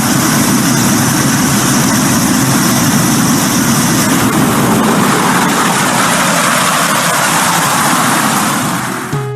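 Loud, steady noise of a jet aircraft in flight: engine and airflow. A high hissing band in it stops about four seconds in.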